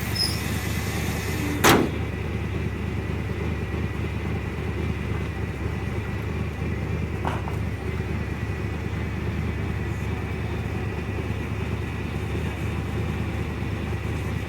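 Vehicle engine idling steadily, with one sharp bang about two seconds in.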